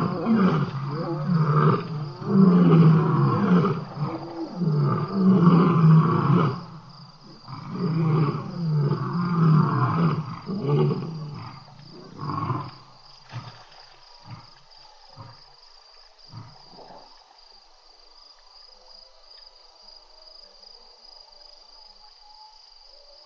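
Lion roaring bout: long, deep roars for about the first thirteen seconds, tailing off into a series of short grunts that stop about seventeen seconds in. A steady high chirring of crickets runs underneath.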